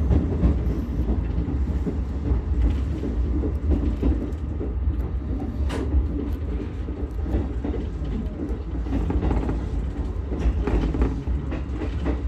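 Ichibata Electric Railway 7000-series electric railcar running along the line: a steady low rumble of wheels on rail, with occasional faint clicks from the track.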